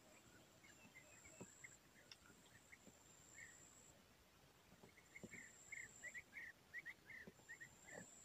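Faint reedbed ambience: small bird chirps, a quick run of them several a second in the second half, over a thin high insect buzz that comes and goes.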